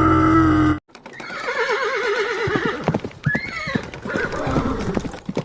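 Horse whinnying: a long quavering neigh about a second in, then a shorter rising-and-falling call, with hooves clopping through the rest.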